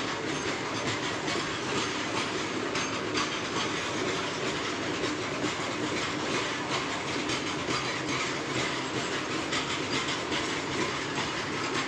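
Train rolling along the track, its wheels clattering over the rail joints in a steady run of clicks over a continuous rumble.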